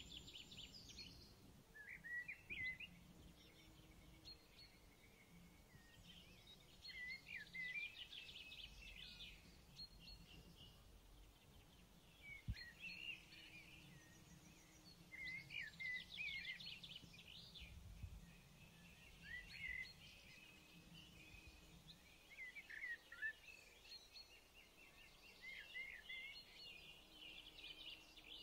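Faint birdsong: small birds chirping and trilling in short quick phrases that recur every few seconds.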